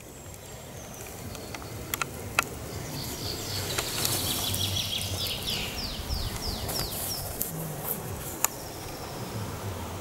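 A songbird singing a run of about ten short, falling whistled notes over a few seconds, over a steady low rumble, with a few sharp clicks.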